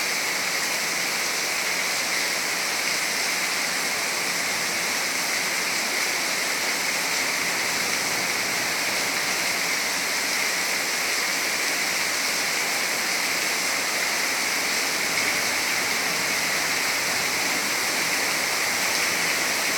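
Heavy rain falling steadily, a dense even hiss that holds at the same level with no breaks.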